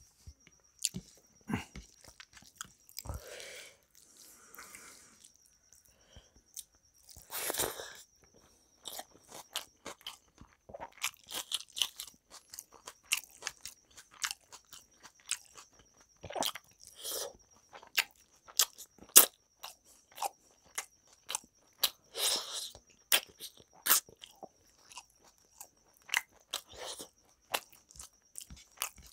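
Close-miked eating sounds: a person chewing rice and curry eaten by hand, with frequent sharp wet smacks and crunchy clicks.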